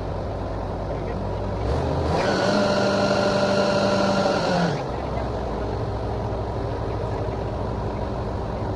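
Borewell drilling rig's engine running steadily. About two seconds in it speeds up for roughly three seconds with a rising whine, holds, then drops back.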